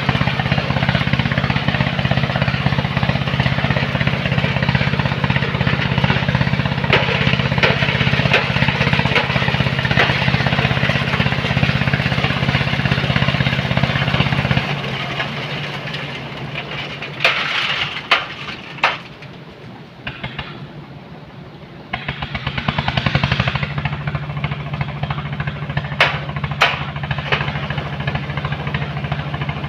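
Engine of a sand-loading machine running steadily with a rapid, rattling beat. About halfway through it drops away, with a few sharp knocks in the quieter stretch, then comes back on at a similar pitch.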